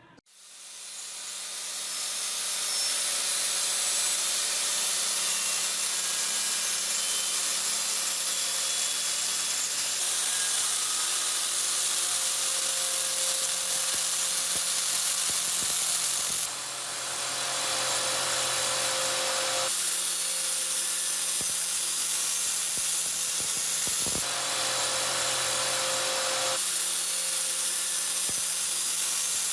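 A small electric power tool spinning up over the first couple of seconds, then running steadily with a high hiss and a steady hum. Its sound shifts abruptly several times.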